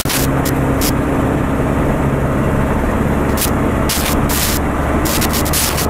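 Van driving along, heard from inside the cab: a steady engine drone and road noise, with a few short hisses here and there.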